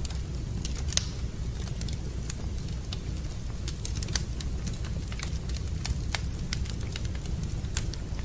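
Fire in a fireplace crackling, with irregular sharp pops scattered through, the strongest about a second in and about four seconds in, over a steady low rumble.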